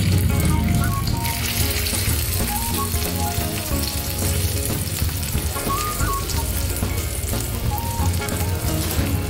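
Cut okra sizzling steadily as it fries in hot oil in a miniature pan, over background music.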